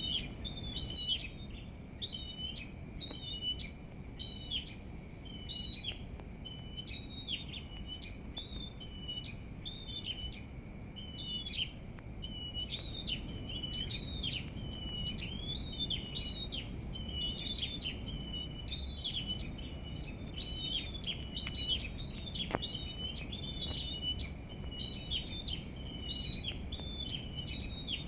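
Small birds chirping continuously in quick, high, short notes, over a low rumble of background noise.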